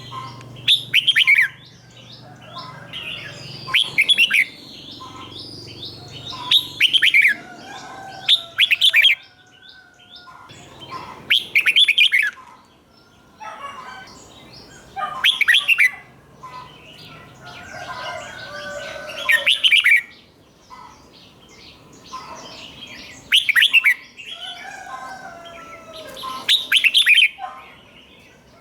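Red-whiskered bulbul singing loud, short, whistled song phrases about every three to four seconds, with softer chattering between them.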